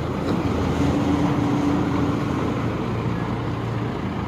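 Combine harvester engine running steadily, with a steady droning tone that comes in about a second in and fades a little after three seconds.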